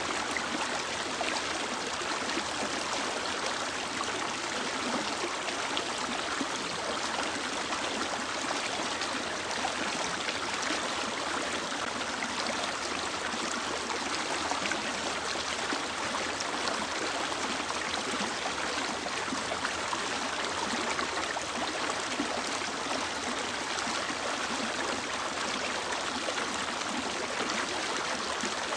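A mountain stream or river flowing steadily over rocks, rushing and gurgling at an even level.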